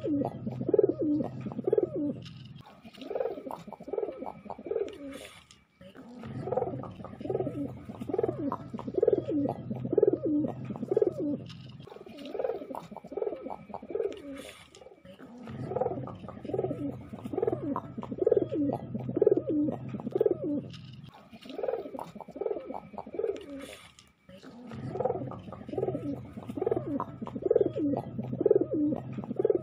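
Domestic pigeon cooing: runs of quick low coos, about two a second, broken by short pauses every few seconds.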